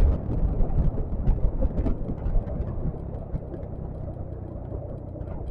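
Steady low rumble of a Yamaha XMAX scooter under way, its engine and road and wind noise blustering on the microphone, with a few faint ticks.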